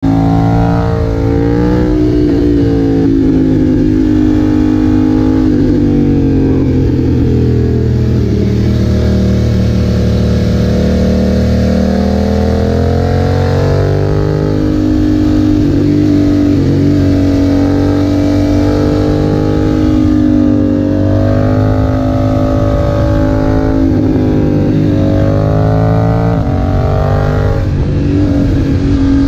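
BMW F900R's parallel-twin engine through a Leo Vince aftermarket exhaust, running under load on the move. Its note climbs and falls several times as the throttle is opened and eased.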